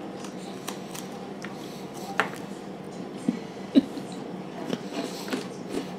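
A person chewing a hard, crunchy chocolate cookie with M&Ms in it: quiet crunches and mouth sounds, with a few short clicks scattered through.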